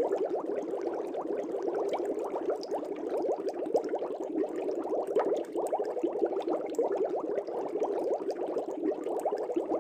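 Aquarium bubbling steadily: a dense, unbroken burble of small air bubbles rising and breaking in the water.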